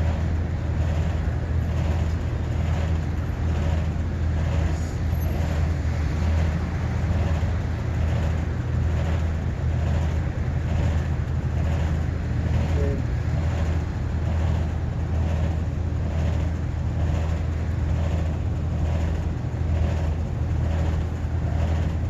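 Steady machinery hum, low and even, with a soft regular pulse a little more often than once a second.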